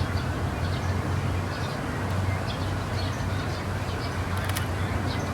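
Steady low rumble of city background noise with faint, short, high bird chirps scattered through it, and a single sharp click about four and a half seconds in.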